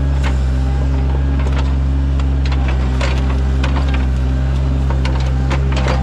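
Sany mini excavator's diesel engine running steadily under work, with a scatter of short knocks and clatters from the digging about every half second to second.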